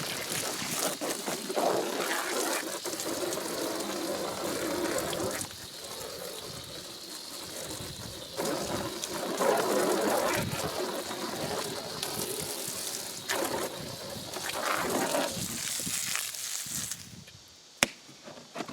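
Running water splashing as a mortar tub and trowel are rinsed of concrete. It eases off for a few seconds partway through and cuts off shortly before the end.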